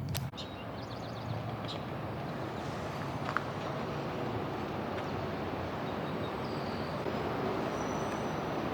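Steady low background rumble with a couple of sharp clicks right at the start and a few faint ticks soon after.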